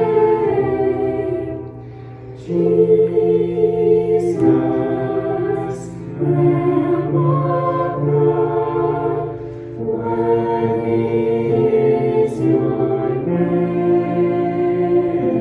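Slow worship music with a choral sound, long held chords changing every few seconds.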